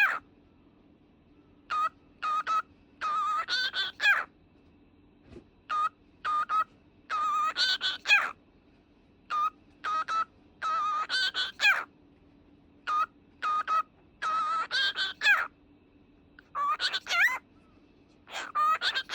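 Cockatiel whistling a tune: short single notes alternating with longer wavering, warbling phrases, repeated over and over with short pauses between.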